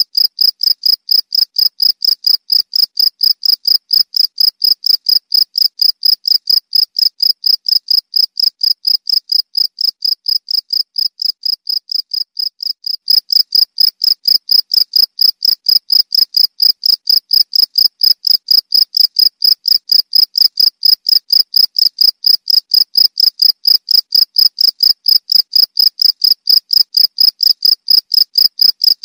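A field cricket (jangkrik) chirping steadily: a high, pure-toned chirp repeated about three times a second without pause, stepping up in loudness about halfway through.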